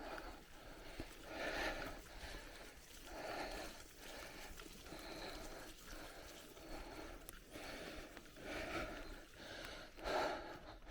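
A cyclist breathing hard and rhythmically while riding, about one loud breath every second and a half to two seconds with softer ones between.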